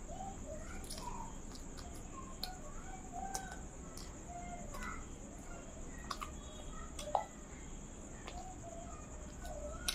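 Eating by mouth: open-mouthed chewing of potato curry with paratha, soft wet squelches and lip smacks, with a few small clicks, one sharper near the end. A steady faint high-pitched whine runs underneath.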